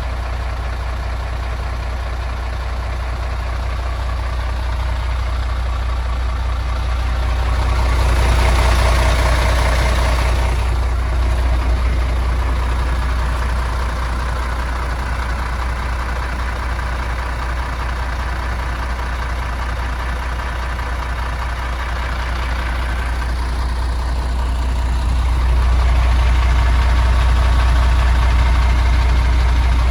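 MAN TGX 26.470 truck's 470 hp Euro 6 straight-six diesel idling with a steady low rumble, swelling louder twice: briefly about eight seconds in, and again near the end.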